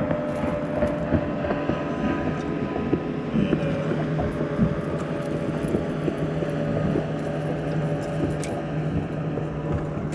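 A boat motor running steadily, a constant low hum with steady higher tones over it and scattered light knocks.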